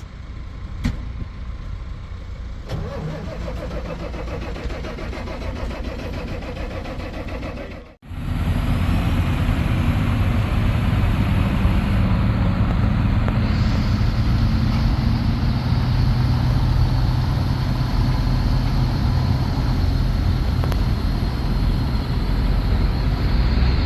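John Deere 6810 tractor's diesel engine running steadily. About eight seconds in the sound breaks off and comes back much louder and closer, then holds steady.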